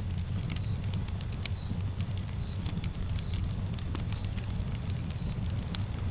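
Campfire burning, with irregular sharp crackles and pops over a steady low rumble. A short high chirp repeats about once a second throughout.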